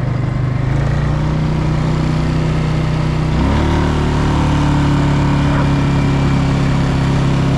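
Tractor engine running steadily under way, its pitch stepping up once about three and a half seconds in.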